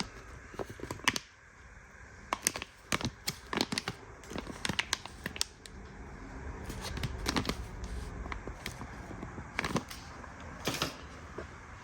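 Small hand tools and their packaging being handled: irregular light clicks and taps with some rustling.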